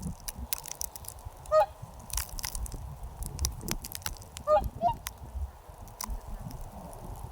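Geese honking: three short calls, the last two close together, over scattered small clicks.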